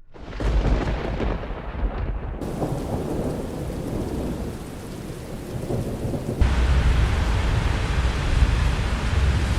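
Thunder rumbling with rain falling. It rises in just after a brief drop-out, and about six and a half seconds in it jumps abruptly to a louder, deeper rumble with heavier rain hiss.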